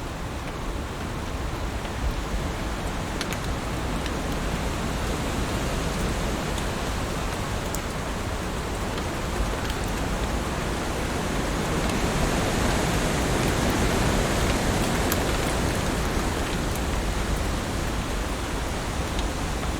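Heavy rain falling steadily on leaves as an even hiss, with a few single drops ticking through it. It swells a little louder about two-thirds of the way in.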